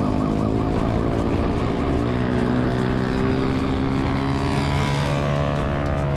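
Motorcycle engine running hard during a police pursuit, its note climbing as it revs up over the last couple of seconds. A police siren yelps rapidly in the first second.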